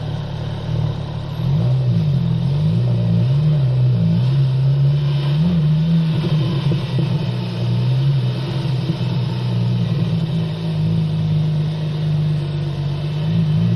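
Porsche 997 Turbo S twin-turbocharged flat-six running on the move, with road and wind noise. Its engine note rises and falls several times over the first few seconds as the throttle comes on and off, then holds steady.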